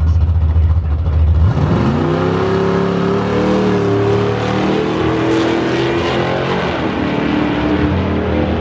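Drag-racing car engine idling at the starting line, then launching about a second and a half in: the revs climb quickly and hold high as the car accelerates down the strip, with a drop in pitch near the end.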